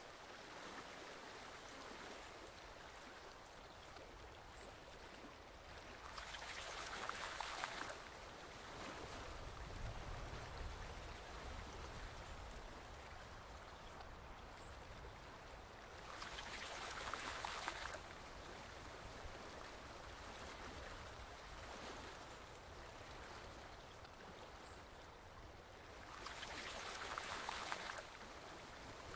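Forest stream flowing, a steady babble of water with louder splashing surges about every ten seconds. A faint, brief high chirp comes a few seconds before each surge.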